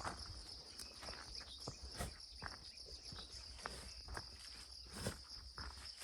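Steady high-pitched insect chorus, with footsteps on a path coming at irregular intervals, the heaviest about two and five seconds in.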